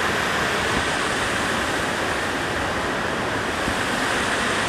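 Close waterfall rushing: a loud, steady roar of falling water, near enough to throw mist.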